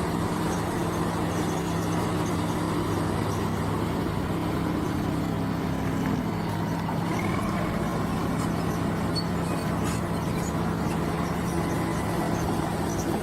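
Diesel engine of heavy earthmoving machinery running steadily at a constant pitch.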